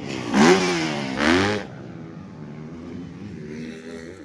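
Motocross motorcycle engines: one bike revs hard twice in quick succession, the pitch rising and falling each time, then a lower, steady engine sound from bikes further along the track.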